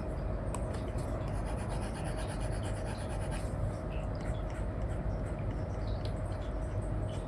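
Apple Pencil 2, fitted with an Elecom replacement nib, rubbing and scratching across a paper-feel screen film on an iPad as strokes are drawn, with small tip ticks, over a steady background hiss and hum.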